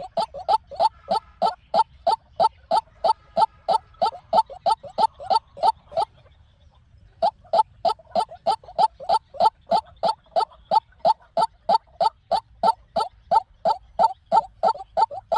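White-breasted waterhen calling: a fast, even series of short repeated notes at about four a second, breaking off for about a second near the middle and then carrying on. It is the call played as a lure to trap waterhens.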